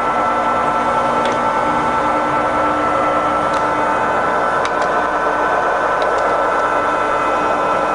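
Ursus 250 centre lathe running in low range, its headstock and feed gearbox turning the lead screw: a steady gear whine made of several even tones over machine noise, with a few faint ticks.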